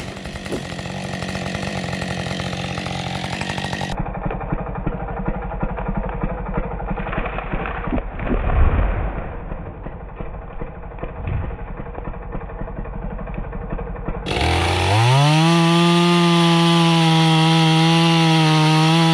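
Husqvarna two-stroke chainsaw running, heard across several spliced shots, with a loud low thud about halfway through. Near the end the saw revs sharply from idle up to a steady high-pitched full-throttle whine and holds it.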